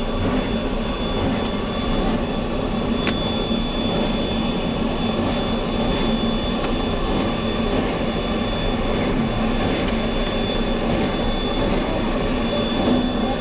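Steady running noise of a train in motion behind 2-4-4-2 steam locomotive #7, wheels rolling on the rails and air rushing past, heard from an open observation car, with a thin steady high tone over it.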